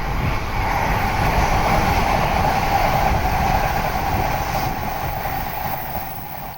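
Shinkansen train passing at speed: a loud, steady rushing noise that builds, holds for a few seconds, then fades toward the end.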